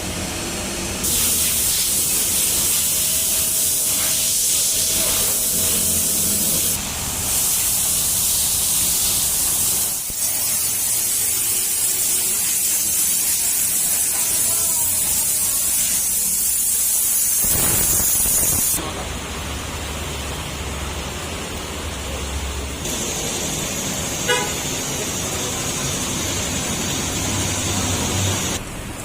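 A high-pressure jet hissing against a car at a car wash, in long loud stretches that break off briefly and then come back. Later it gives way to a quieter, steadier hiss, with a short squeak or beep near the end.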